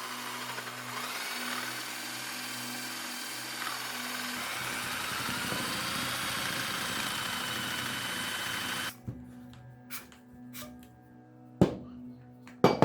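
Electric drill spinning a sandpaper pipe-sanding tool inside a pipe, the motor whine wavering in pitch as the paper rubs the pipe wall. It stops abruptly about nine seconds in, and a couple of sharp knocks follow near the end.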